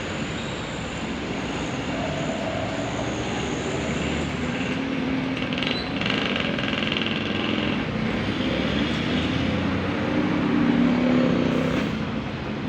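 A line of coal trucks driving past with their engines running, the noise growing louder about halfway through and again near the end as trucks come closer.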